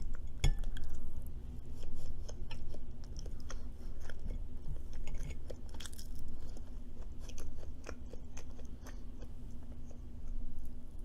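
Close-up chewing with soft crunches, wet mouth clicks and scattered crackles, over a faint steady low hum.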